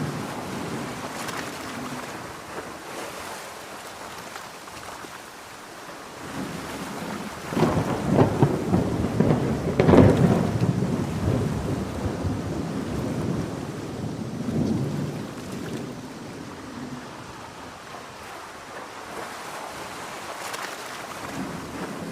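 Heavy rain falling steadily, with a long rolling peal of thunder that builds about a third of the way in, peaks near the middle and slowly dies away, followed by a weaker rumble.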